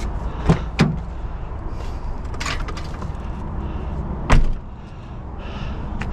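Two quick hard knocks about half a second in, some rustling, then a louder bang a little past four seconds, from scrap items being handled and set down, over a steady low rumble.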